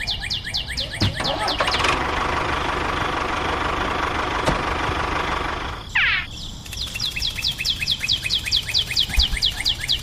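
A rapid, even series of falling chirps, like a bird, about five a second, broken for a few seconds by a steady rushing noise that ends in a short sweep.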